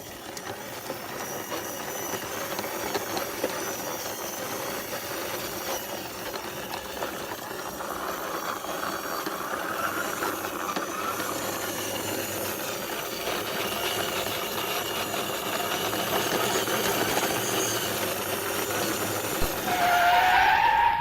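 A plastic toy car pushed by hand, its wheels rolling and rattling over rough ground in a steady gritty noise. A short rising tone sounds near the end.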